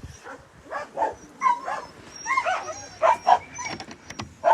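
Dogs whining and yipping in a series of short, pitch-bending calls.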